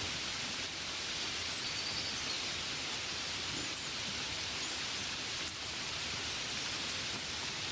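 Steady rain, an even hiss. A few faint high chirps come about two seconds in, and there is a single light tap about five and a half seconds in.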